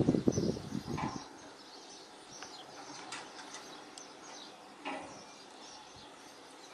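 Strong wind gusting across the microphone with a loud low rumble for about the first second, then easing to a lighter steady wind noise with a few faint high chirps.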